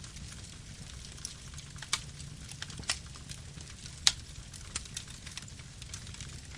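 Campfire burning: a steady low rumble of flames with scattered crackles and sharp pops from the burning wood, the loudest pop about four seconds in.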